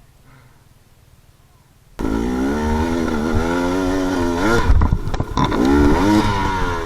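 Dirt bike engine revving hard, its pitch climbing and dropping with the throttle, cutting in abruptly about two seconds in after near quiet.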